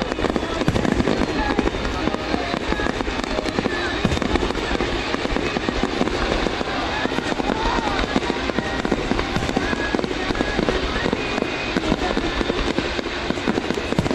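A dense, continuous fireworks barrage: many shells bursting and crackling in quick succession, without a break.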